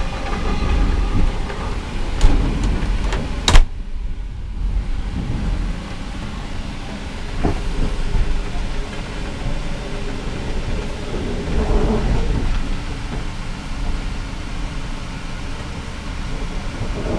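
Indian Pacific passenger carriage running along the track, a steady low rumble and rattle heard from inside a sleeper compartment. A single sharp knock comes about three and a half seconds in.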